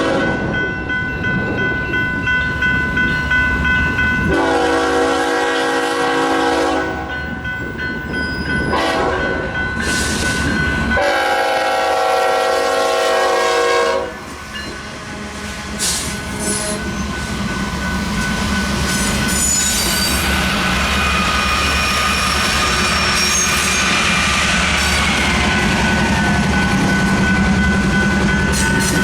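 Diesel freight locomotive horn sounding for the crossing: the end of one blast, then a long blast, a short one and another long one, over the steady ringing of the crossing's electronic bell. About halfway through the horn stops and the lead GE diesel locomotives pass, with engine rumble, wheels clattering on the rail and a brief faint wheel squeal.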